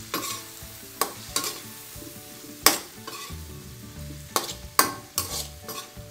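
Metal spoon stirring chicken liver and gizzards with onions in a wok, scraping and clinking against the pan in irregular strokes, the loudest a little before halfway, over a low frying sizzle from the freshly added soy sauce.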